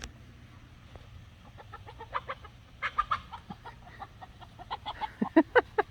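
Chickens clucking: a run of short, quick clucks starting about a second and a half in, coming in little clusters and loudest near the end.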